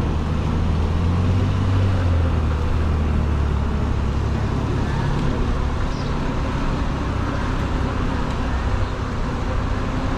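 Road traffic noise heard while riding: a low vehicle hum that fades out about halfway through, over a steady rushing noise.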